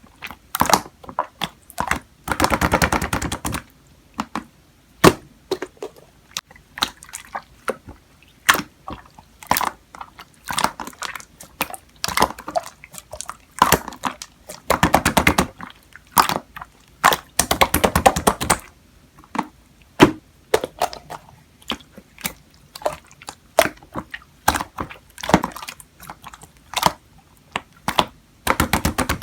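Close, irregular clicks and taps, with three dense runs of rapid clicking: about two seconds in, at about fifteen seconds and at about eighteen seconds.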